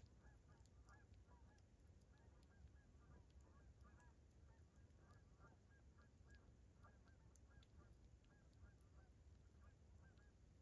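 Faint honking of geese, many short calls in quick succession, over a few scattered crackles of a campfire.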